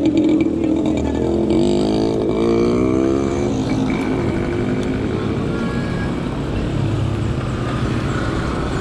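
Road traffic: a motor vehicle's engine rises and falls in pitch between about one and a half and three and a half seconds in, then a steady traffic rumble goes on.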